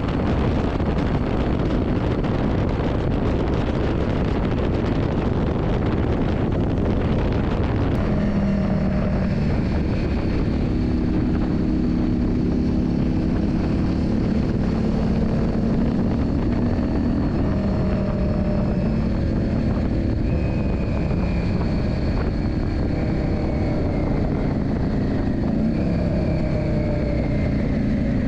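Yamaha Drag Star 400's air-cooled V-twin engine running under way. A loud rushing noise largely covers it for the first eight seconds or so, after which the engine note comes through clearly at steady pitches. Near the end the note falls slowly as the revs drop.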